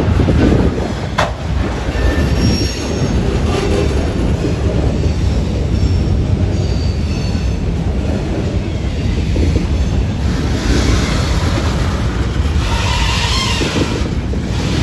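Freight train cars rolling past at close range: a steady low rumble of steel wheels on the rails, with brief faint high wheel squeals now and then. A louder rushing noise comes in about ten seconds in and again near the end.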